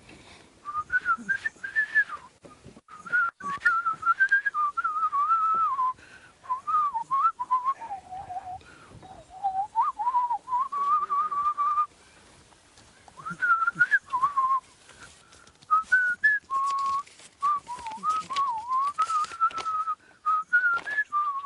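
A person whistling a tune, a single clear note wandering up and down in short phrases with brief pauses between them.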